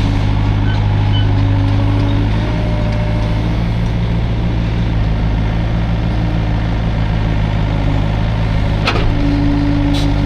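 Hydraulic excavator's diesel engine running steadily under load, with a higher tone that fades after about two seconds and comes back near the end. A sharp knock about nine seconds in.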